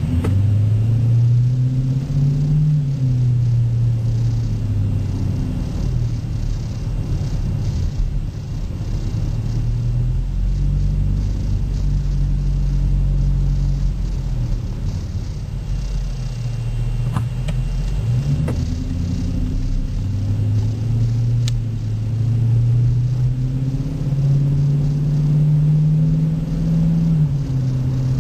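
2008 Dodge Charger R/T's 5.7-litre Hemi V8 through a Zoomers aftermarket exhaust, heard from inside the cabin while driving: a deep, steady exhaust rumble whose pitch rises and falls several times as the engine speed changes.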